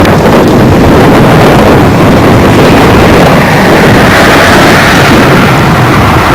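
A train passing close by: a loud, continuous rumble and rush, with a brighter hiss coming in about halfway through.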